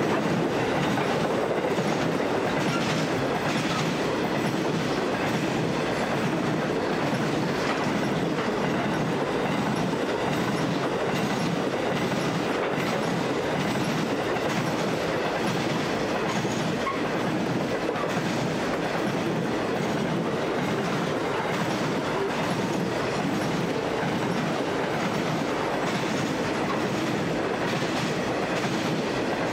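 Loaded grain hopper wagons of a long freight train rolling past, a steady rumble with the wheels clicking over the rails.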